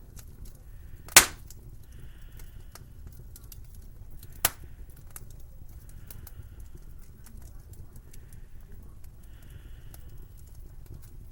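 Wood fire crackling over a low steady rumble, with two sharp loud pops, one about a second in and another a few seconds later.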